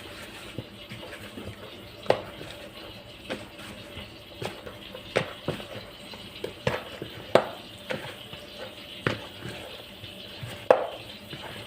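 Repeated light clinks and knocks of kitchenware, roughly one every half second to a second, several with a short ring after them.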